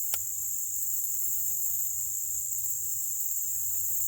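Steady, high-pitched chorus of crickets or similar insects, with one sharp click about a fraction of a second in.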